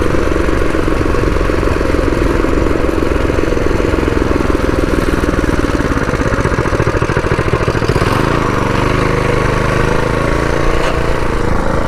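Predator 212 single-cylinder four-stroke engine on a mini bike running steadily while riding. About eight seconds in its note changes, with a rising tone toward the end.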